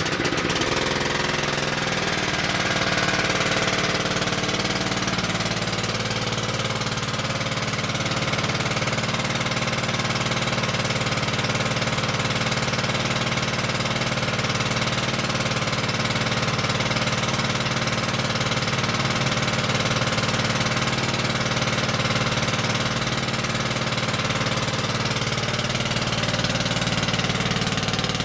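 Wheel Horse Suburban 551 garden tractor's engine on a cold start, just caught: it picks up speed over the first couple of seconds, then runs steadily at part throttle.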